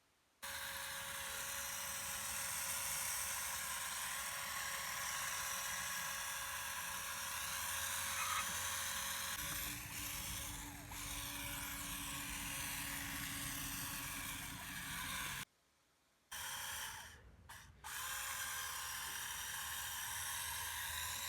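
Small electric motor and gearbox of an RC model tractor whirring steadily as it drives. The sound breaks off briefly about three-quarters of the way through, then the same whir resumes.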